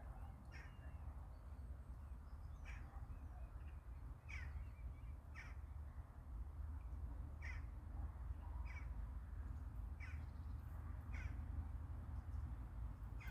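A bird giving short harsh calls, one every second or two, over a steady low rumble.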